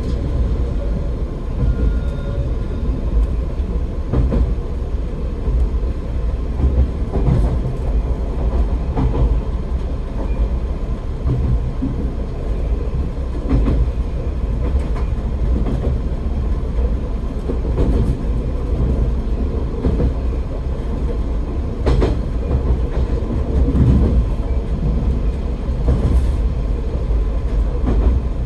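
AN-8800 diesel railcar running, heard from on board: a steady low rumble of engine and wheels, with occasional knocks as it passes over rail joints.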